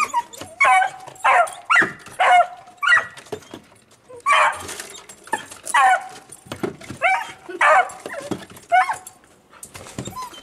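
Dog barking repeatedly, about two barks a second, with a brief pause a little over three seconds in.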